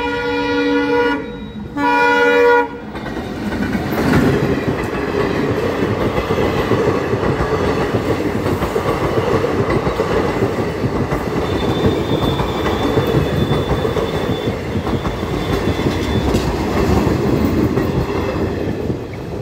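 Railway locomotive horn sounding two blasts: the first ends about a second in, the second is short and loud, about two seconds in. Then a passenger train runs through the level crossing, a steady rumble with the rapid clatter of wheels over the rails, and a faint thin squeal for a few seconds around the middle.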